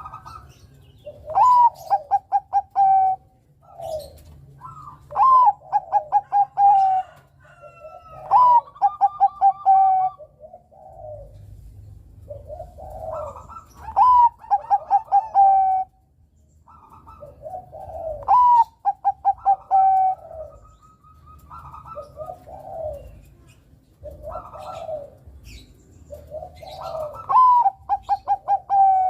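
Zebra dove (Bangkok perkutut) singing its cooing song. The song comes again and again, about every three to four seconds, each phrase a rising note followed by a quick run of short, even coos.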